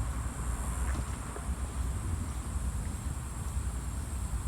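Wind buffeting the microphone: a steady low rumble, with a faint high hiss of outdoor background behind it.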